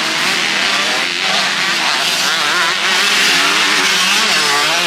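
Several motocross bikes running hard, their engine pitch rising and falling as they rev and shift on the track.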